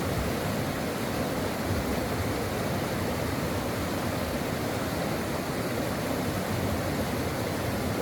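A brook flowing steadily, a constant wash of water with no breaks or distinct events.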